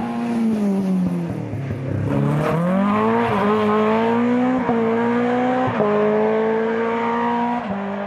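Rally car engine at full throttle on a closed stage. The revs drop as it slows for the junction, then climb as it pulls away, and the engine note breaks briefly four times as it shifts up through the gears.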